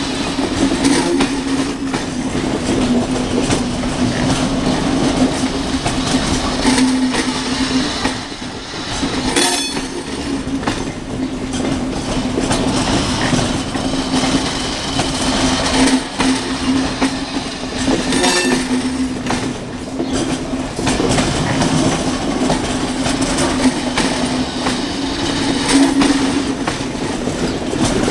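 Passenger coaches rolling slowly behind a diesel shunting locomotive: a steady engine hum, with the wheels clicking over rail joints. Two brief high wheel squeals come about a third and two-thirds of the way through.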